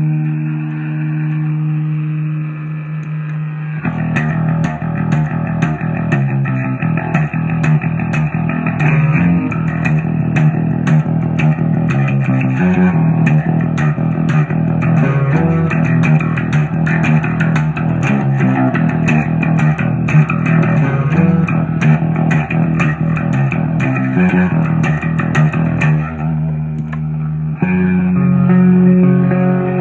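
Instrumental music on guitar and bass guitar with effects. Held chords open it, and after about four seconds it turns busier, with quick high ticks over the chords. It thins briefly near the end before the chords return.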